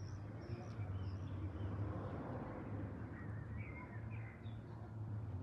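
Small birds chirping a few short calls, a cluster near the start and more about three to four seconds in, over a steady low outdoor hum.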